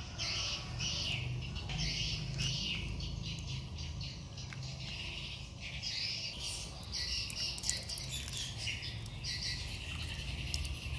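Birds chirping over and over, with a steady low hum underneath.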